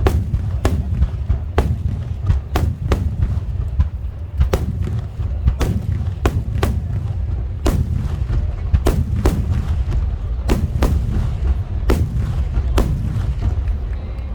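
Aerial fireworks shells bursting in a rapid, uneven barrage of sharp bangs, one or two a second, over a continuous low rumble of booms.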